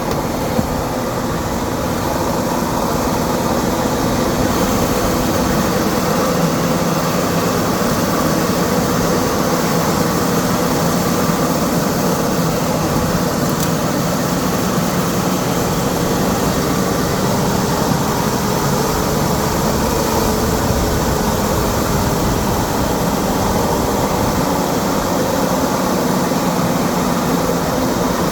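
A vehicle engine running steadily, a continuous drone with several steady low tones over a rushing noise.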